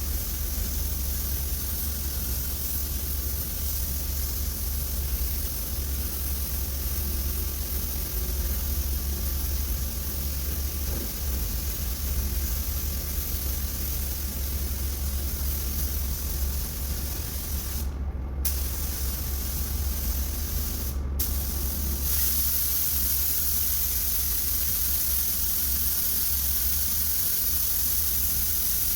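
Air spray gun spraying paint, a steady hiss that cuts out twice briefly as the trigger is released, then comes back stronger, over a steady low hum.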